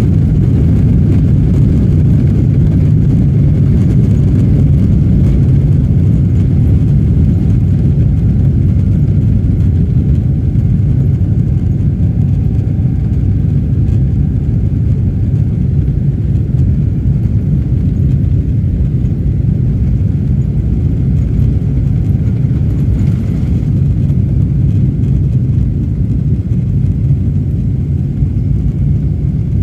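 Jet airliner taking off: a loud, steady low rumble.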